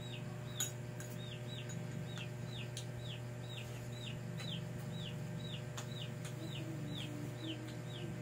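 A small bird chirping rapidly, about three short high chirps a second, each sliding down in pitch, over a steady low hum. A few sharp clicks, the loudest about half a second in.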